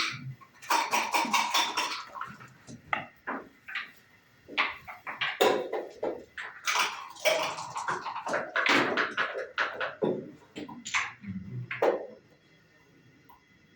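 Backgammon play: dice rattled in a cup and rolled onto the wooden board, and checkers clicked into place, in a quick run of clacks that stops about twelve seconds in, with one more click near the end.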